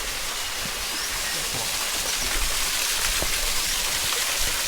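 Waterfall water falling in a steady rushing hiss.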